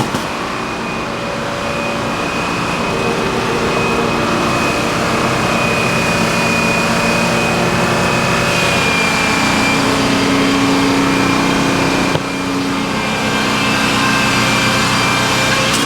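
Sawmill machinery running steadily: an engine-driven mill with several steady tones that shift slightly, and a brief drop in level about twelve seconds in.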